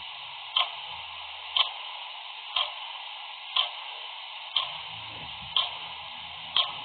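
Clock ticking steadily, one tick a second, seven ticks in all, over a steady hiss.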